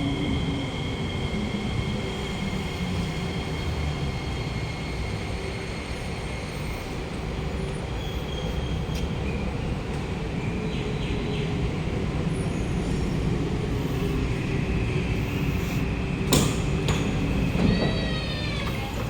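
Inside a Kawasaki–CRRC Qingdao Sifang C151A MRT train running along the track: a steady rumble of wheels and running gear with a thin steady whine from the motors. There is a sharp knock about sixteen seconds in and a brief squeal near the end.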